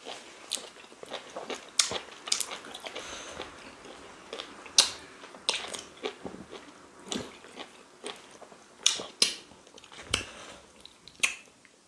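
Close-up eating sounds of pounded yam and ogbono soup eaten by hand: chewing with irregular wet mouth clicks and smacks.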